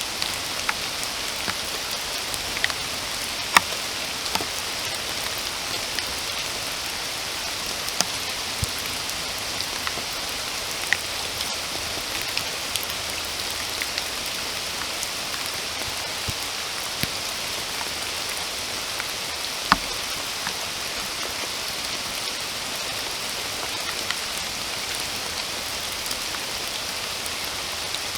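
Steady rain falling, an even hiss with scattered louder single drops striking close by; the loudest drops land about three and a half seconds and twenty seconds in.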